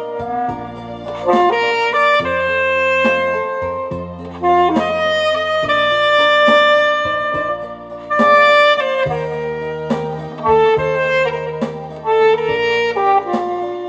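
Alto saxophone playing a slow melody of held notes over an accompaniment with sustained bass notes and a light beat.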